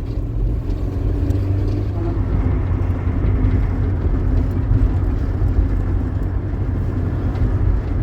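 A vehicle engine running steadily, a continuous low drone with a faint steady hum.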